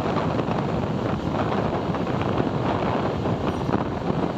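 Steady wind rush on the microphone, mixed with road and engine noise from a moving motorbike, with no single event standing out.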